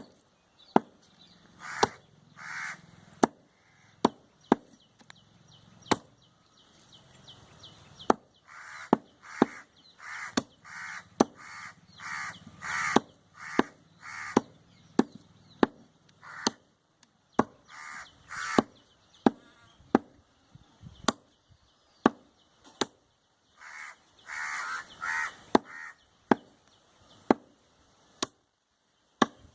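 Cleaver chopping goat meat and bone on a block: sharp single chops, roughly one a second. Clusters of harsh, rasping bursts come in between the chops at several points.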